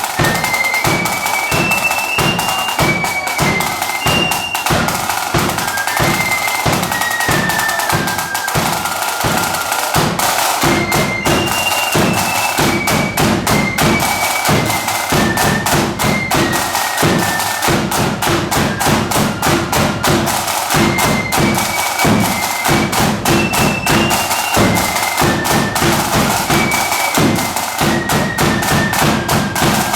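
Marching flute band playing: a high flute melody over rapid snare drumming and bass drum beats.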